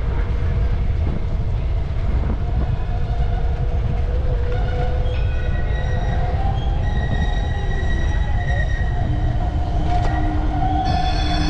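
Steady low rumble with high, steady squealing tones that come and go, like metal wheels screeching, getting stronger near the end.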